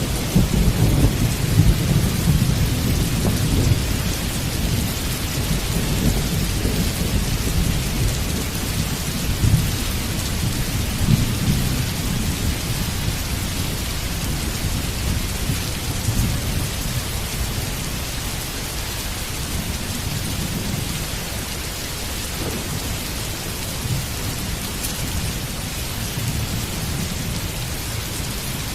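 Heavy rain falling steadily, with a low rolling rumble of thunder that is strongest in the first few seconds and then dies down under the rain.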